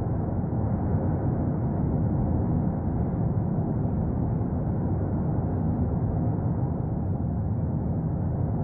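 Steady low rumble of the Cumbre Vieja volcano erupting, an unbroken deep noise with no distinct blasts.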